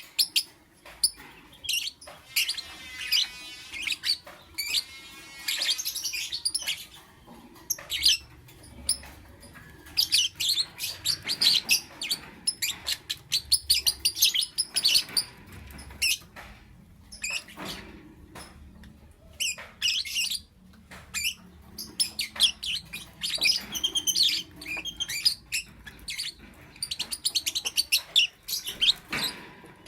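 Lovebirds chirping: quick runs of sharp, high chirps and squeaks, with a longer warbling stretch a few seconds in.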